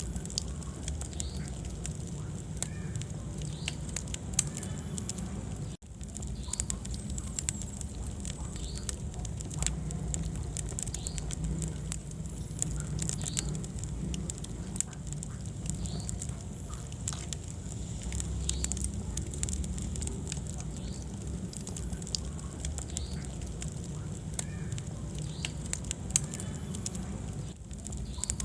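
Wood fire crackling in a fireplace: a steady low rumble of the flames with frequent sharp pops and snaps from the burning logs. The sound drops out for an instant about six seconds in.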